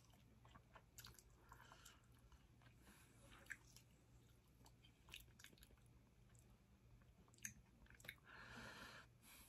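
Faint, quiet chewing of a mouthful of food: soft, scattered mouth clicks and wet smacks, with a short breathy hiss about eight seconds in.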